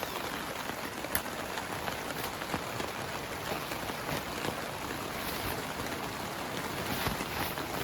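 Heavy rain falling steadily on a tent, with single drops ticking now and then.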